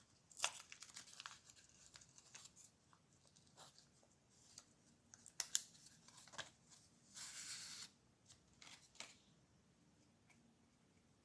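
Packaging being torn and crinkled: a run of faint crackles and clicks, with a longer tearing hiss about seven seconds in.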